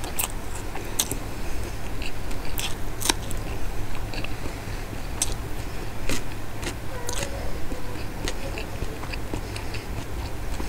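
Close-miked mouth sounds of a person chewing a soft mouthful of rice and shredded Bombay duck curry: irregular wet clicks and smacks, over a steady low hum.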